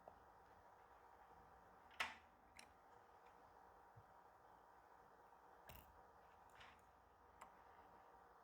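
Near silence, broken by a few faint, sharp clicks of small metal watchmaker's tools on a watch movement as the balance is taken off; the clearest click comes about two seconds in, with lighter ones after.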